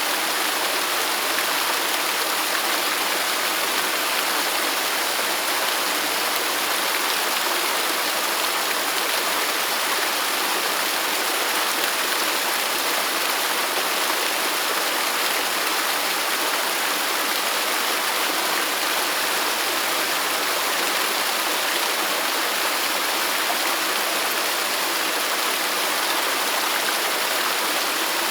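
Waterfall: a steady, unbroken rush of falling water, hissy and bright with little low rumble.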